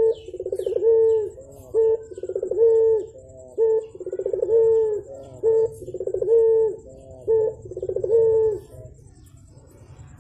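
Puter (ringneck dove) cooing over and over: each phrase is a short note followed by a longer rolling coo that settles into a held tone, repeated about every two seconds, with a pause about nine seconds in.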